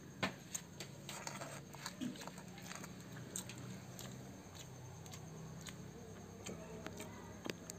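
A person eating rice and roasted egg by hand: chewing and mouth sounds, with short sharp clicks scattered throughout.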